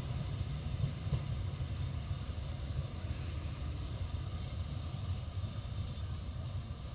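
Low, steady rumble of a train's diesel locomotive, under a continuous high, pulsing trill of insects chirring.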